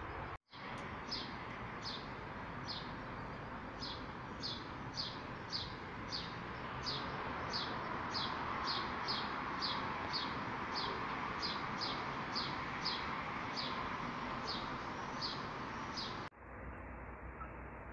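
A small bird repeating a short, high, falling chirp at a bit under two calls a second, over steady outdoor background noise.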